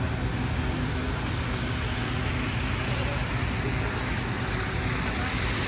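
City street traffic: a steady low rumble of engines with a hiss of tyres that swells a little through the middle, as vehicles pass.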